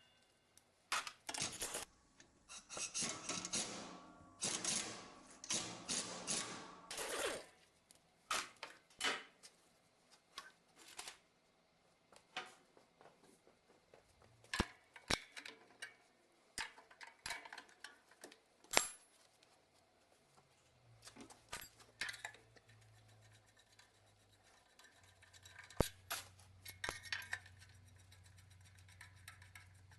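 Metal tools and engine parts clinking and clattering in irregular sharp clicks and knocks as a diesel engine is taken apart by hand. A steady low hum joins in past the middle.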